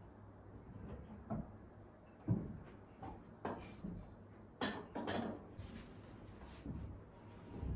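Kitchen handling sounds: scattered knocks and clatters as items are moved and set down, with a heavier knock about two seconds in and a quick run of clatters around the middle.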